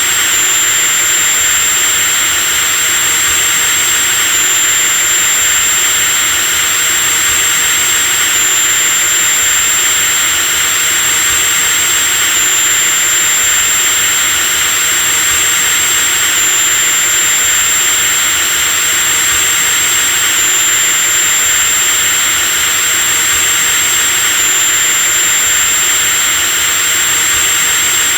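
Electric drill running continuously at constant speed, a steady motor noise with a thin high whine on top that hitches slightly about every four seconds.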